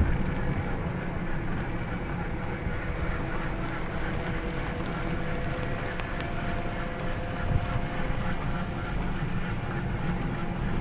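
A resort buggy running, with a steady low rumble of motor and tyres and a faint steady hum on top.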